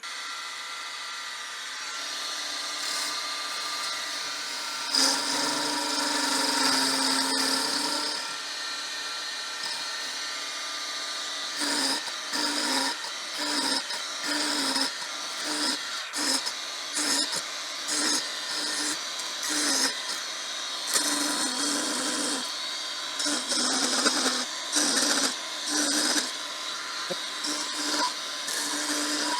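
Small wood lathe running while a ball-turning jig's cutter cuts into the spinning wood. From about halfway through, the cutting swells and fades in repeated passes, roughly once a second.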